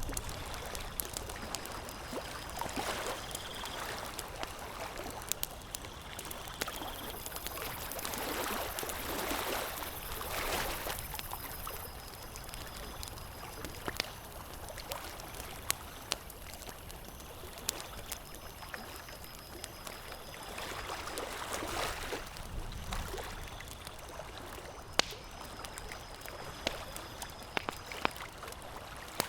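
Campfire crackling, with sharp pops scattered irregularly through it, over a rushing hiss that swells and fades every several seconds.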